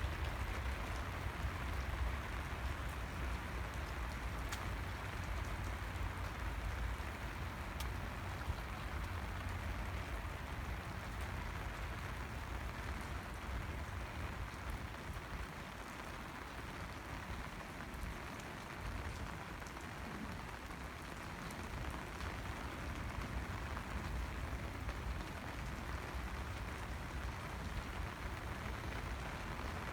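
Steady rain falling, a continuous hiss of drops, with a low rumble underneath that eases for a few seconds midway.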